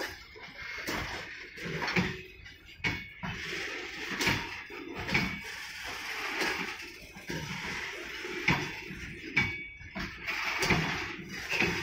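Loaded BCNA covered freight wagons rolling slowly past, their steel wheels clunking over rail joints about once a second over a steady rolling hiss, with a few brief, thin wheel squeals.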